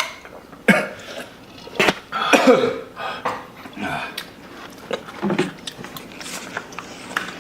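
Throat and mouth noises from people eating: a cough or throat clearing among chewing and short sharp sounds, with one longer strained vocal noise about two seconds in.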